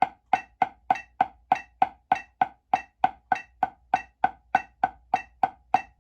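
Left-hand drumstick strokes in steady eighth notes at 100 beats per minute, about three even, sharp taps a second. This is a finger-control exercise, played soft, in which one finger at a time comes off the stick and the grip changes each measure.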